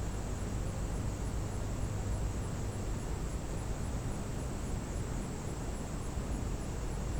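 Steady outdoor background noise: a constant low rumble with an even hiss over it and no distinct events.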